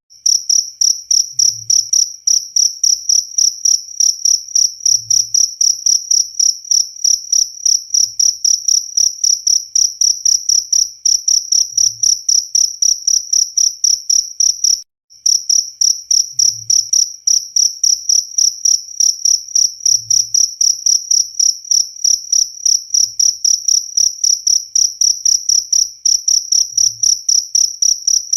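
Cricket chirping loudly and continuously: a high, even trill pulsing several times a second, with one brief break about halfway.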